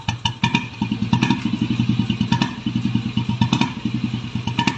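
Royal Enfield G2 Bullet's single-cylinder engine running with its even thump. About a second in, the beat quickens as the throttle is opened, and it eases back near the end.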